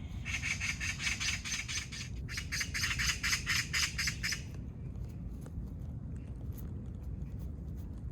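Animal call: two quick rattling series of sharp chirps, about seven a second, each lasting about two seconds, over a steady low rumble.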